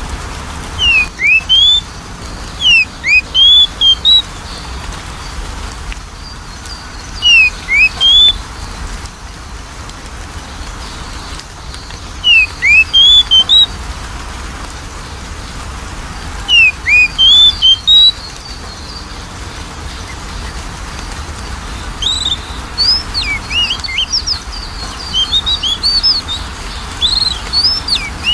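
Oriental magpie-robin (kacer) singing: short phrases of clear rising whistled notes repeated every four or five seconds, then from about two-thirds through a faster, busier run of varied notes.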